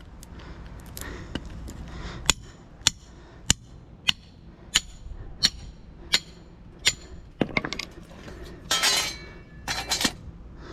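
Hammer blows on a metal rod being driven into an electric motor during a tear-down for its copper: about nine even strikes, one roughly every 0.6 s, then a few quicker clinks and two short metallic rattles near the end.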